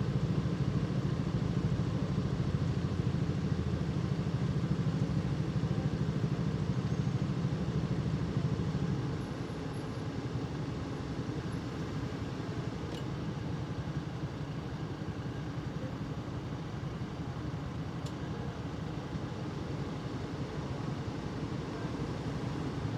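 Motorcycle running, heard from the rider's seat, with traffic noise around it. The low engine rumble drops off sharply about nine seconds in, and the ride runs more quietly after that.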